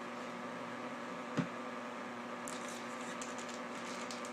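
Trading cards being handled: a single soft tap about a second and a half in, then light crackly rustling from about halfway, over a steady electrical hum.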